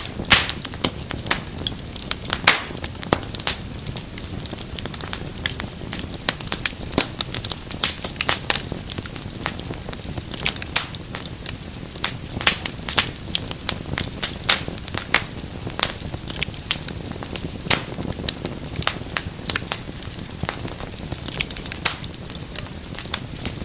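Wood fire crackling steadily in a fireplace: frequent, irregular sharp pops and snaps over a soft steady hiss of flame.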